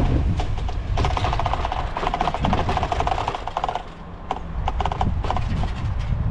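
Bicycle freewheel ticking rapidly while coasting, with wind rumble on the microphone; the ticking thins out for a moment about four seconds in.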